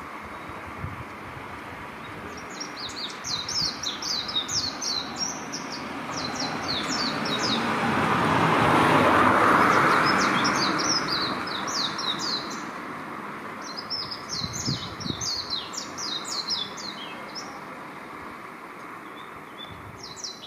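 Japanese white-eye singing in repeated bursts of rapid, high twittering, each phrase a second or several seconds long. A passing vehicle swells and fades in the middle.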